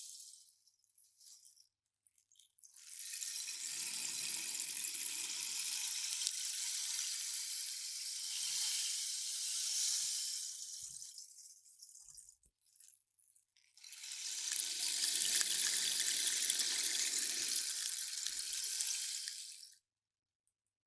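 A rainstick turned over twice, each time a long rain-like trickle of pellets running down inside the tube, the first lasting about eight seconds and the second about six, with a short quiet between them.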